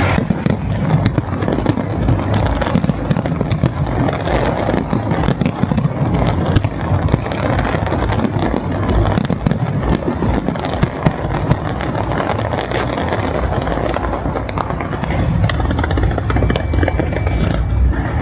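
Large fireworks display: a continuous barrage of bangs, crackles and low booms.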